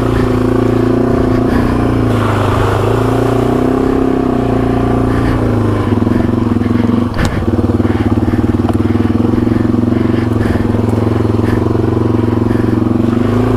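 Yamaha TW200's single-cylinder four-stroke engine running steadily as the bike is ridden over a rough trail, its pitch shifting a little with the throttle. A sharp knock about seven seconds in.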